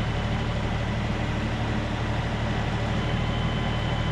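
Tractor engine running steadily at a constant speed, with a faint steady high whine over it.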